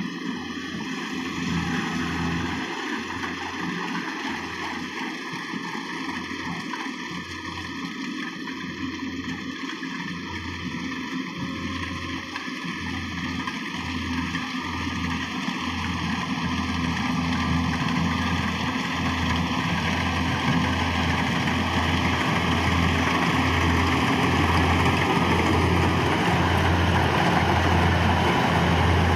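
Rice combine harvester's engine and machinery running steadily with a low, regular pulsing, growing louder over the second half.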